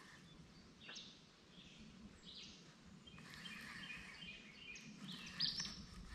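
Faint birds chirping now and then over a quiet outdoor background hush, with one brief, louder high note about five seconds in.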